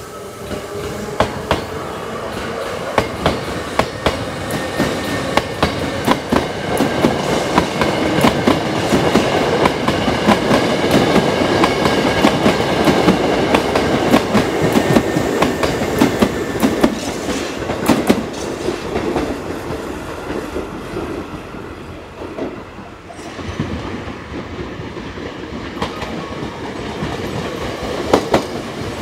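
Hankyu electric commuter train running through the station, its wheels clattering over the rail joints in a dense run of clicks. The sound builds to its loudest around the middle, fades after about twenty seconds, then picks up again near the end.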